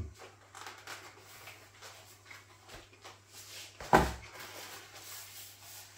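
Quiet chewing and mouth noises from a person eating a burger, with faint scattered clicks. One sharp thump about four seconds in.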